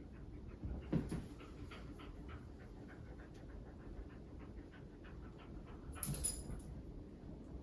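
A dog panting quickly and steadily at about three to four breaths a second, with two louder brief bumps or rustles, one about a second in and one near the end.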